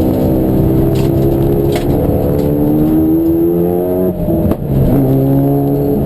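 Racing car engine under hard acceleration, its pitch climbing for about four seconds, then dropping sharply at a gear upshift a little after four seconds in and climbing again.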